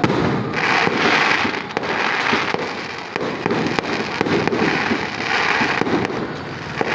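Fireworks going off in rapid succession: a dense, continuous crackle of many small bursts, swelling twice with a rush of hiss.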